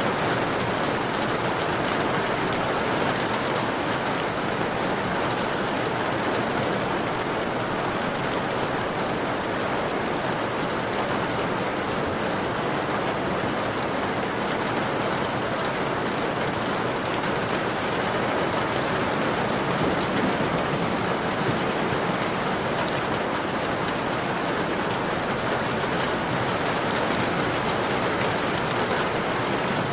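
Steady rain falling on a window, a constant hiss with fine scattered drop ticks.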